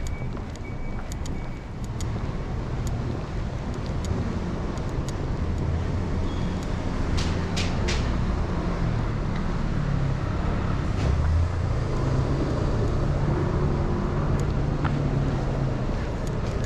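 Street traffic: a motor vehicle's engine running close by, its low drone growing louder through the middle and staying loud, with a few sharp clicks a little before halfway.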